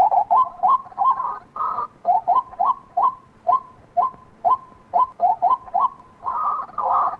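White-breasted waterhen calling: a rapid, repetitive run of short, upward-flicking notes, about two to three a second, broken by a few longer, harsher calls.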